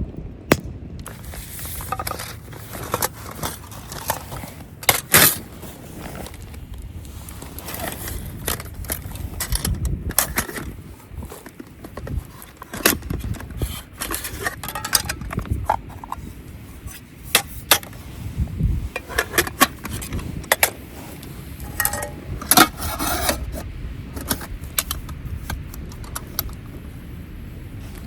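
Irregular metallic clinks, scrapes and knocks of camp cookware and utensils being handled, over a steady low background noise.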